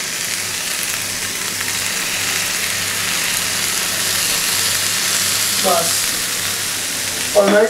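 Fried rice with chicken and vegetables sizzling in a hot frying pan as dark soy sauce is poured over it: a steady frying hiss that builds over the first second and then holds.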